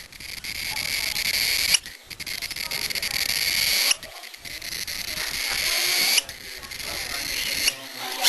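A bird hissing in repeated breathy swells, four times: each hiss grows louder over about two seconds and breaks off sharply.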